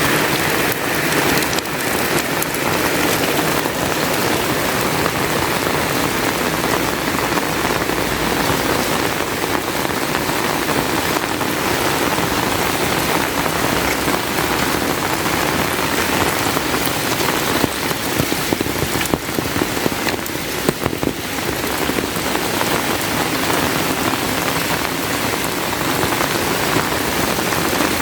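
Heavy rain falling steadily. About two-thirds of the way in there is a stretch of louder, uneven drops.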